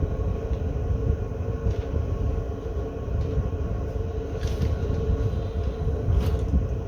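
A steady low rumble with a constant hum, and a few light clicks and taps as the racks of ribs are flipped and handled.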